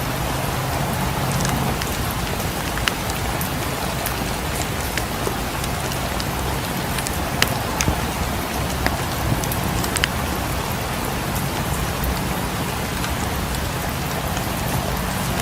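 Steady rain with a fireplace crackling: an even hiss of rain, broken by scattered sharp pops, a few of them louder.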